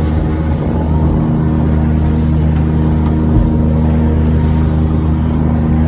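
A boat's engine running steadily at a constant speed, a low even hum with no change in pitch.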